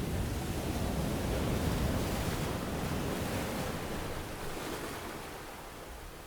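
Ocean waves breaking on a beach: a wave's surge swells up just before the start, holds for about three seconds, then slowly washes back and fades.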